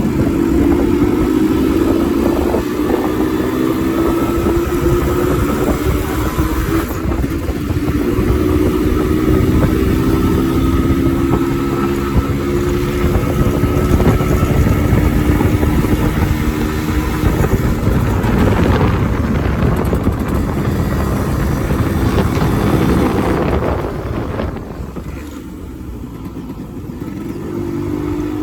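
Yamaha RX100's 98 cc two-stroke single-cylinder engine running under way, its note rising and falling as the bike is ridden, over a rush of wind and road noise. The sound drops back for a few seconds about three-quarters of the way through and builds again near the end.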